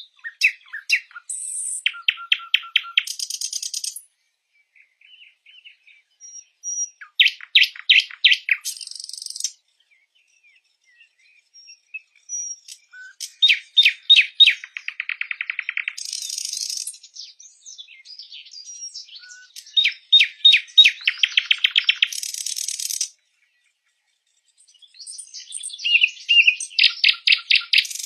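Sikatan londo song: bouts of rapid, rattling trills of about ten notes a second mixed with high, buzzy notes, each bout a few seconds long with short pauses between.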